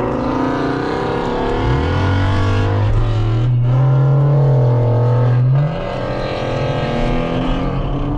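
Car engine revving hard: the revs climb about two seconds in and are held high for several seconds, then drop off suddenly after about five and a half seconds and build again near the end.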